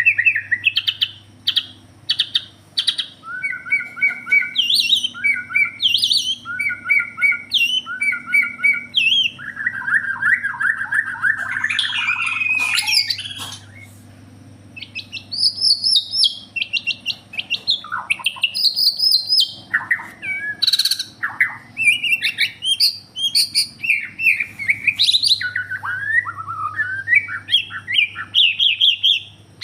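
A white-rumped shama (murai batu) sings a loud, varied song of whistled phrases. In the first third it repeats a two-note figure several times, and about ten seconds in it breaks into harsher chattering notes. A steady low hum runs underneath.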